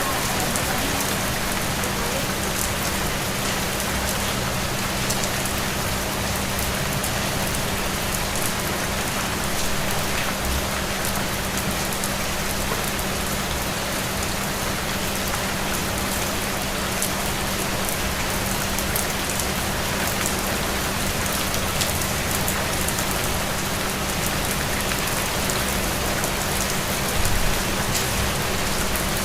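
Steady rain falling on a surface, with scattered single drops heard as small clicks and a low steady hum underneath.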